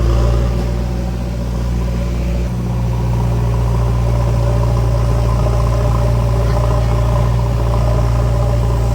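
Heavy diesel machine engine running steadily at a constant speed, a deep even hum.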